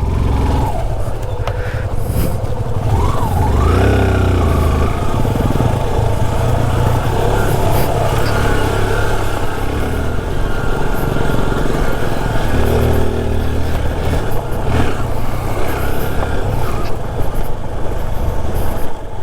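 Two-stroke single-cylinder engine of a Yamaha RX motorcycle running continuously on a rough off-road trail, its revs rising and falling.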